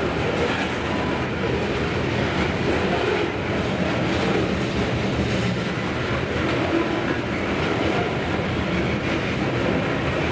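Freight train of covered hopper cars rolling steadily past: the continuous sound of steel wheels running on the rails.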